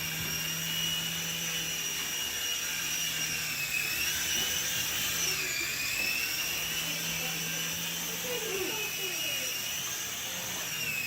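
Small electric motors and rotors of a Sky Rover Vigilante indoor toy RC helicopter, hovering with a steady high whine. The pitch dips briefly twice as the throttle is eased.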